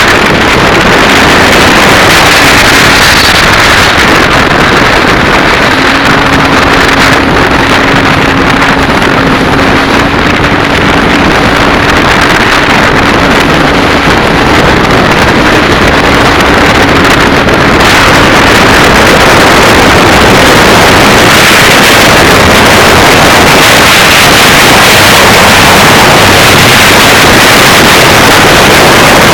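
Sea-Doo jetski running at speed under heavy wind noise on the microphone, with the rush of water; the engine's steady tone fades under the wind noise about halfway through.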